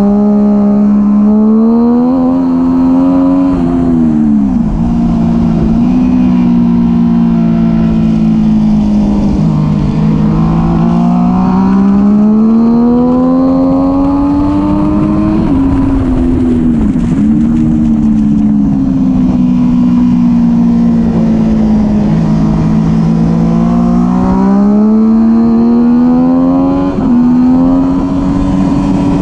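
Onboard sound of a middleweight sport bike engine on track, near full throttle. Its pitch climbs steadily as it accelerates, breaks off sharply a few times, and falls away as it slows into the corners, repeating over and over.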